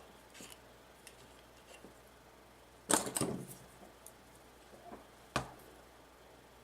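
Small clicks and rattles of small parts being handled on a workbench, with a louder cluster of clicks about three seconds in and one sharp click about five and a half seconds in.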